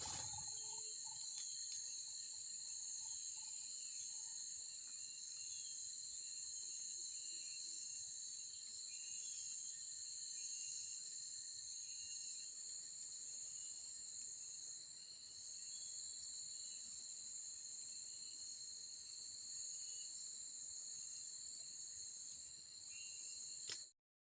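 A chorus of insects droning in a steady, high-pitched whine that cuts off suddenly near the end.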